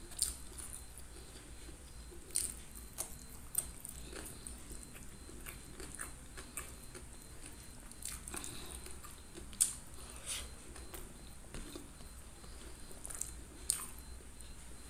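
Mouth sounds of eating fish head and rice by hand: chewing with a run of short, wet lip smacks scattered through, a few of them sharper and louder.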